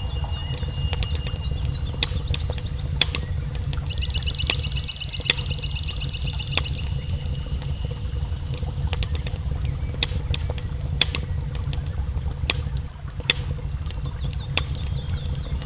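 Fireplace fire burning with a steady low rumble and scattered sharp crackles and pops. A thin high whistle runs through it, and about four seconds in a rapid high trill lasts a couple of seconds.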